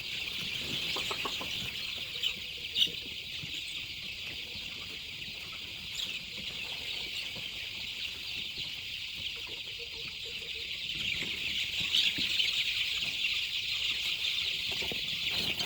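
Chickens clucking now and then over a steady high-pitched hiss, with a couple of brief sharp clicks.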